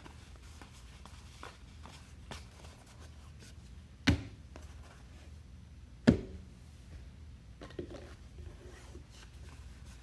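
Trading cards and packs being handled on a table: soft scattered ticks and rustles of cards being flipped through, with two sharp knocks about four and six seconds in.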